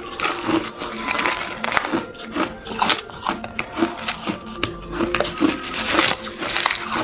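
Hard ice cubes being bitten and chewed: a quick, irregular run of sharp crunches, several a second.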